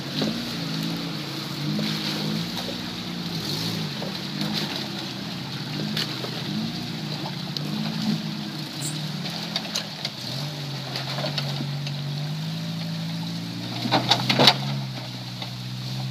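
An off-road 4x4's engine revving up and down, its pitch rising and falling every second or so, then holding steadier from about ten seconds in. A quick burst of knocks and clatter comes about fourteen seconds in and is the loudest moment.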